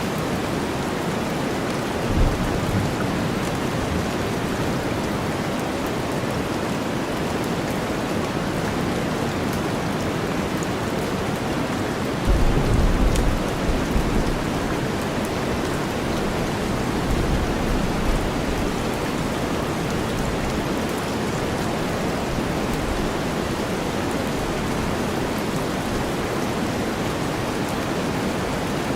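Steady rainstorm blended with deep white noise, a constant even hiss. Low rumbles of thunder break through about two seconds in, more strongly around the middle, and faintly again soon after.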